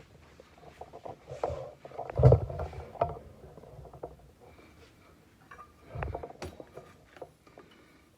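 Kitchen handling noises: cookware and utensils being moved and set down, giving scattered knocks and clunks, with a heavier thump a couple of seconds in and another around six seconds.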